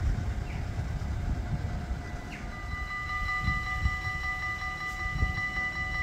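Train at a station: a low rumble, then from about halfway a steady high ringing of several tones that keeps going.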